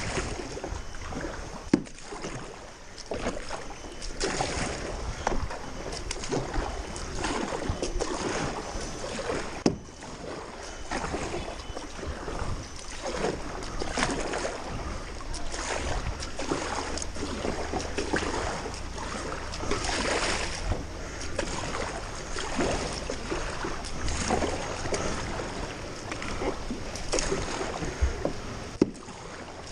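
Floodwater sloshing and splashing in rapid, irregular surges, with a few sharp knocks.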